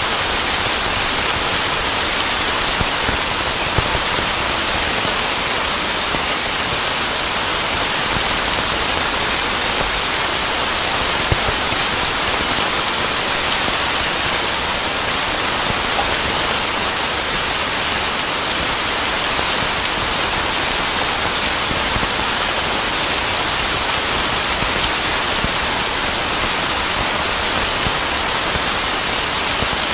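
Steady heavy rain, a dense even hiss with the odd sharper drop-like tick.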